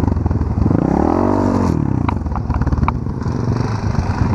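Quad bike engine revving up and dropping back once as the ATV crosses rough ground, over a steady idling engine, followed by a few sharp knocks and clatters.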